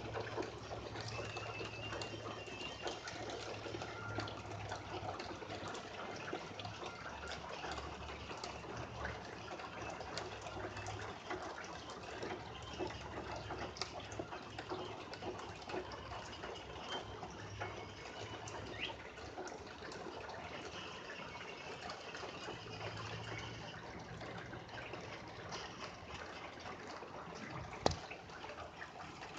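Steady rain falling, with many small drops and trickles of water. A low hum comes and goes underneath, and there is a single sharp tap near the end.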